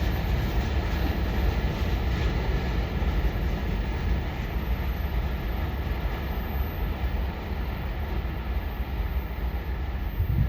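Freight train rolling past, a steady low rumble of the wagons' wheels on the rails.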